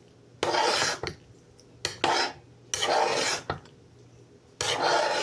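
A spoon scraping around a pot of cooked broccoli cheddar rice as it is stirred, in four separate strokes.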